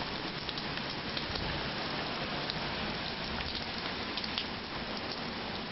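Heavy hurricane rain falling steadily as an even hiss, with a few scattered ticks of drops striking nearby.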